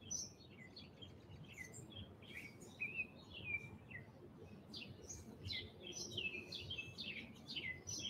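Songbirds chirping faintly: many short, falling chirps, coming thicker in the second half.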